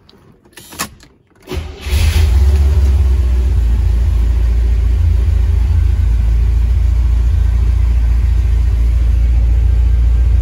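A 1976 Corvette's Quadrajet-fed 350 V8 starts about two seconds in, after a couple of knocks, and settles into a steady, loud, low idle at about 1,000 rpm on the freshly rebuilt carburetor.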